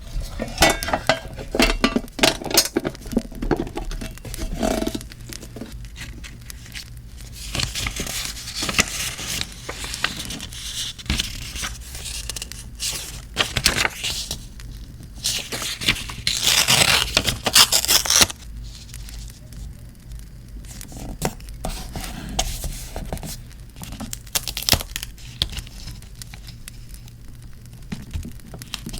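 Paper being torn, crinkled and scraped by hand, with many small taps and rustles. The longest and loudest stretch of tearing and rustling comes about two-thirds of the way through.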